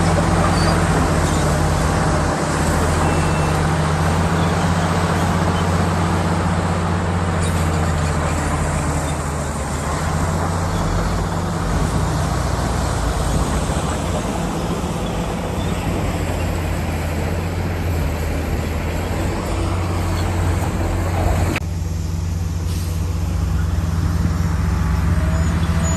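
Komatsu D65PX bulldozer's diesel engine running steadily under a loud mechanical rattle and hiss; the higher part of the noise drops away suddenly near the end.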